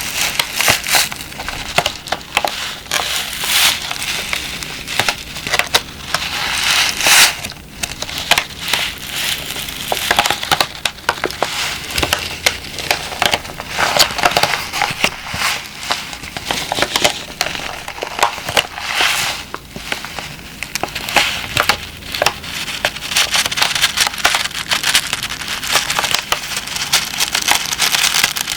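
A moisture-absorber (dehumidifier) pack being squeezed and crinkled, giving dense, irregular crackling and crunching throughout.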